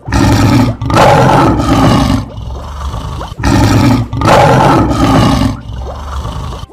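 Lion roars: four loud, rough roars in two pairs, the second pair repeating the first, each a short roar followed by a longer one.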